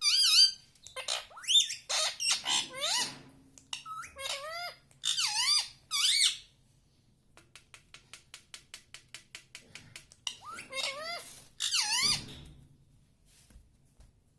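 Indian ringneck parrot calling in a string of short, high-pitched, gliding squawks and chirps. In the middle there is a run of quick clicks, about six a second. Another burst of calls follows.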